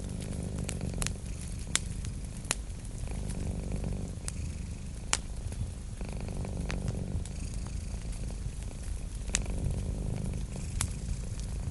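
A cat purring steadily and close, the purr swelling and easing about every three seconds with its breathing. Over it come the sharp pops and crackles of a wood fire, a few crisp snaps scattered through.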